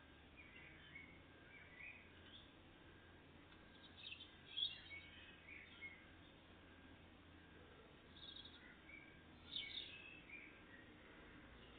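Tits giving short high chirps and calls, scattered and faint over a steady low background hum, with the loudest bursts about four and a half and nine and a half seconds in.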